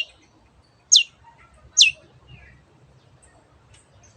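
Long-tailed shrike (cendet) giving its sharp 'teot' call three times in the first two seconds, each note short and falling quickly from a very high pitch. Faint chirps follow.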